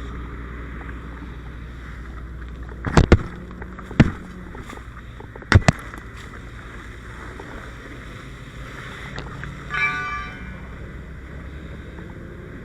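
A steady low engine drone, broken by four sharp knocks or bangs about three to five and a half seconds in. A short pitched buzz comes near the end.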